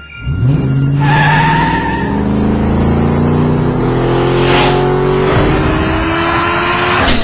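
Car engine accelerating hard, its pitch climbing steadily, with a squealing tone early on and a sharp crack near the end.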